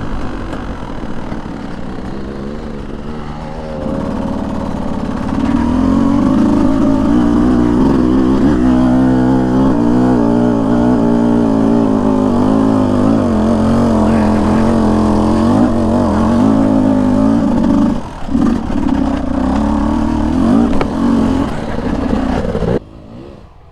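Beta 200 single-cylinder two-stroke dirt bike engine running under throttle, its pitch rising and falling as the throttle is worked. It gets louder about four seconds in and drops off sharply near the end.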